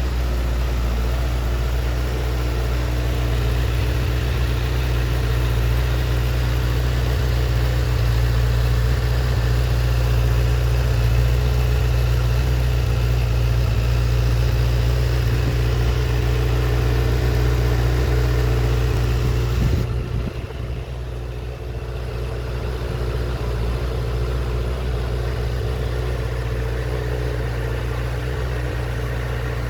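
2008 Honda CBR1000RR Fireblade's 999cc inline-four engine idling steadily through its exhaust, dipping in level for a couple of seconds about two-thirds of the way through.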